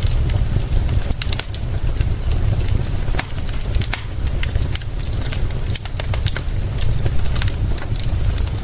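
Crackling fire giving many sharp irregular pops and snaps, over a steady deep rumble and a soft hiss of rain.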